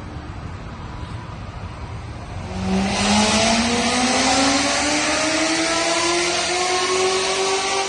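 C7 Corvette Z06's supercharged 6.2-litre V8 making a full-throttle dyno pull. After a low rumble, the engine note jumps loud about two and a half seconds in and climbs steadily in pitch for about five seconds, easing off at the end. It is a tuning pull to check the power and fueling.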